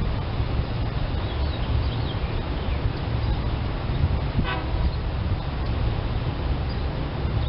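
A brief horn toot, a short pitched blast about halfway through, over a steady low rumble.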